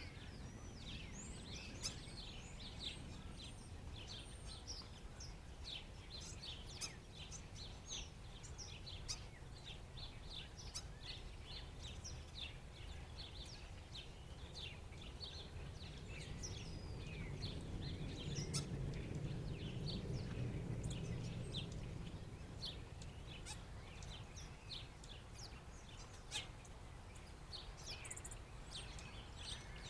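A flock of black birds calling with many short, quick chirps over steady low background noise, which grows louder for a few seconds a little past halfway.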